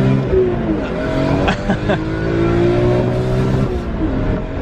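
Car engine pulling under acceleration, its pitch climbing and then dropping at two gear changes, one about half a second in and one near the end.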